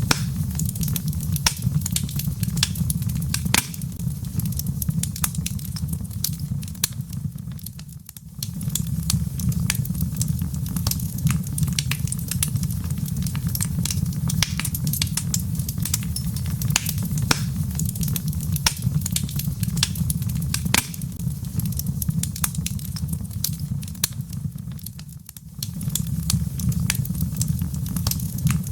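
Wood logs burning in a fireplace, crackling with frequent sharp pops and snaps over a steady low rumble. The rumble briefly dips away twice, about eight seconds in and again near the end.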